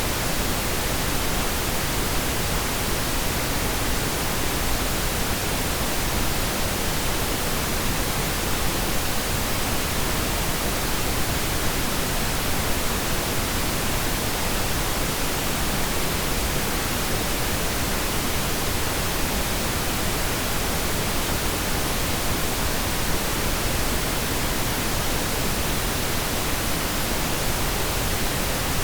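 Steady pink noise: an even, unchanging hiss with no distinct events.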